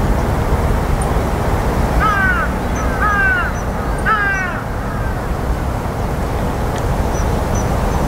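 A bird gives three harsh, arching calls about a second apart, over a steady low rumble, with a few faint high chips from small birds.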